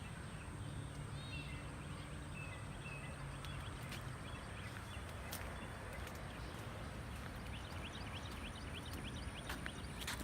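Small birds calling in short chirps, with a quick run of rising chips a little after the middle. Under them runs a steady low rumble and a thin, steady high-pitched tone, with a few scattered sharp clicks.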